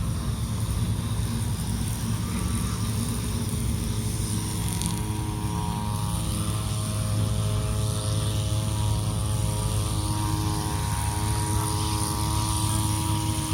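City bus engine running at a bus stop, a steady low hum; about four to five seconds in a steady droning tone with several pitches joins it and holds.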